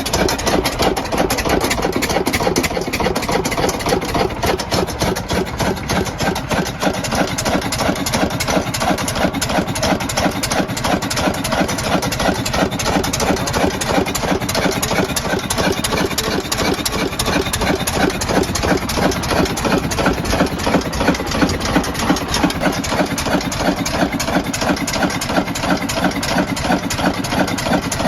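An engine running steadily at idle with a quick, even firing beat.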